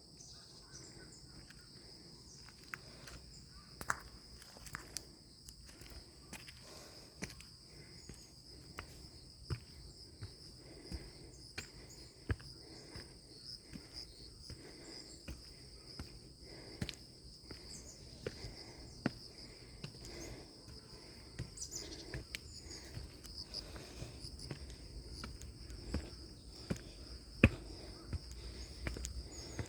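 Footsteps on a hillside trail's stairs, a sharp step about every second or so, with the loudest one near the end, over a steady high-pitched chorus of insects.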